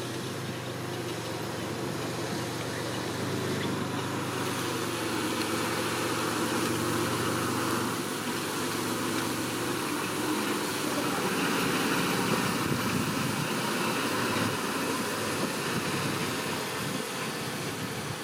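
Diesel engine of heavy earthmoving equipment running steadily, with a low engine note for about the first eight seconds, after which the sound turns rougher and noisier without a clear pitch.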